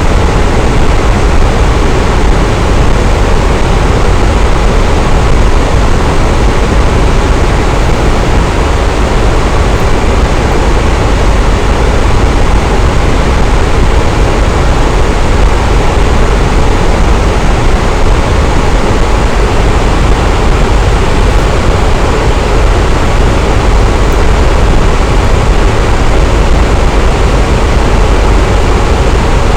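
Fan running steadily: an even, unbroken rush of air noise, heaviest in the low end.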